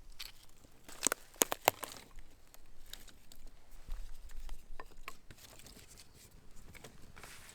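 Gear being handled while getting ready to cook: a quick run of sharp clicks and knocks about a second in, then lighter scattered tapping and rustling.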